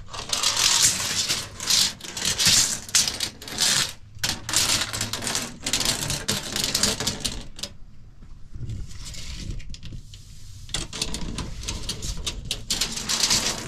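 Steel tape measure being handled: its blade is retracted and pulled out again, rattling and scraping over a rubber coin-pattern floor mat in repeated strokes of a second or two, with a quieter stretch past the middle.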